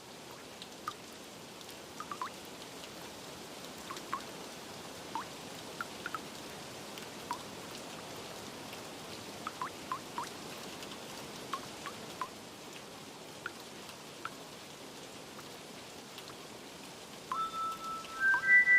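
Steady rain hiss with scattered single water drops plinking, each a short note that drops in pitch. Near the end, chime-like bell notes of music come in.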